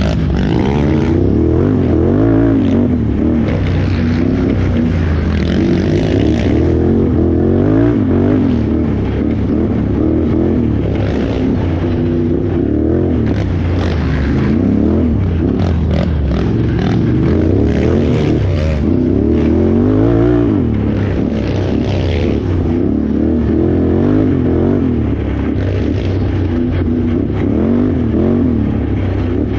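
Can-Am Renegade XXC 1000R ATV's V-twin engine revving up and down over and over as the throttle is opened and closed while riding, with occasional knocks.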